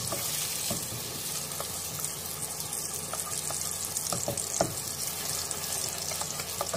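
Onion, tomato, ginger, garlic and green chilli masala paste sizzling in hot oil in a pot as it is stirred with a wooden spatula: a steady frying hiss with occasional knocks and scrapes of the spatula against the pot, the sharpest about two-thirds of the way in.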